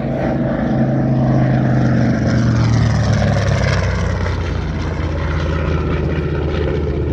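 Grumman TBM Avenger's radial engine and propeller during a low flyby. The loud engine note drops in pitch about three to four seconds in as the plane passes.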